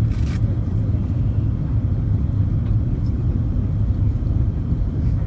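Steady low rumble of an Airbus A330-300's engines and airflow heard inside the passenger cabin; the aircraft's engines are Rolls-Royce Trent 700s.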